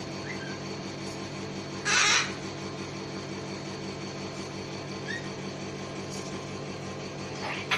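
A cockatoo gives one loud, harsh screech about two seconds in and a shorter one near the end, with a couple of faint short chirps between them, over a steady low hum.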